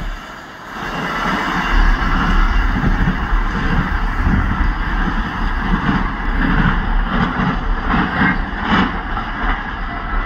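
Container freight train's wagons rumbling along the track, with a few metallic clanks from the wheels crossing points in the second half.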